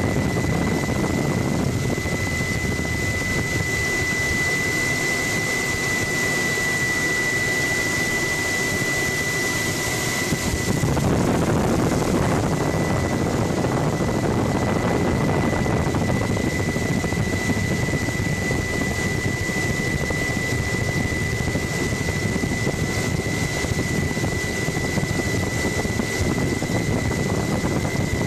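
Helicopter engine and rotor noise heard from on board: a steady, dense din with a constant high-pitched whine, growing a little louder about eleven seconds in.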